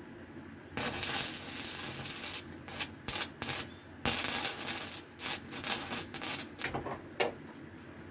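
Stick welding on cast iron: the arc crackles and hisses in uneven spurts while tacking. It strikes about a second in, breaks off briefly near four seconds, restarts, and stops before seven seconds.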